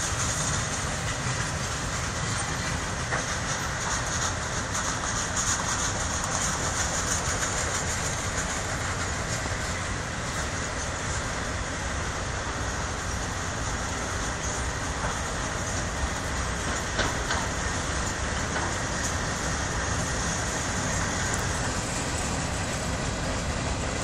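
Freight train cars rolling past: steady wheel-on-rail noise, with a high hiss and occasional clicks as the wheels cross rail joints.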